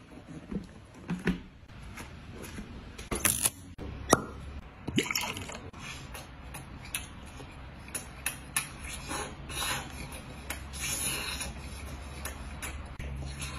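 Close-up eating sounds: biting into and chewing a crisp sesame-crusted fish fillet, with many small crunches and wet mouth clicks from about five seconds on. A few sharp knocks come in the first four seconds.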